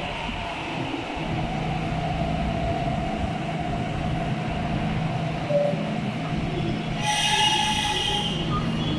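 Interior sound of an MTR East Rail R-Train electric multiple unit: a steady hum with a low drone. About seven seconds in, a high-pitched squeal of several stacked tones lasts about a second and a half.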